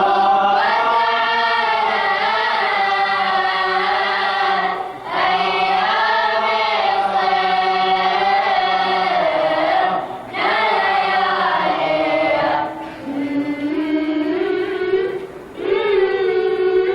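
A group of voices singing an Arabic devotional elegy (latmiya) together, in sung phrases of a few seconds with short breaks between them. About three-quarters of the way through, the sound thins to a single voice singing a rising line before the group comes back in.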